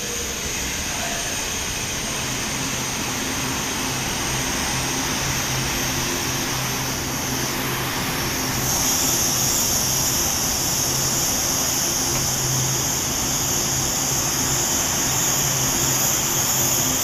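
Electric passenger train moving along a station platform: a steady rushing noise with a low hum underneath, joined about halfway through by a high-pitched hiss.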